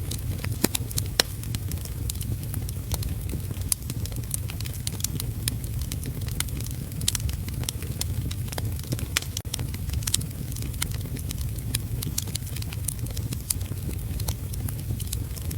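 Fireplace crackling with many small sharp pops over a steady low rumble, mixed with steady heavy rain.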